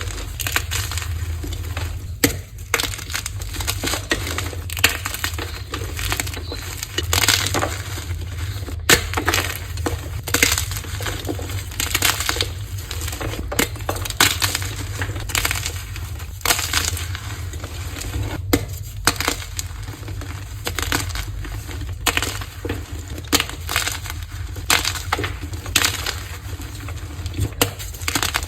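Blocks of dyed gym chalk being crushed: dense, irregular crunching and crumbling with many sharp cracks, over a steady low hum.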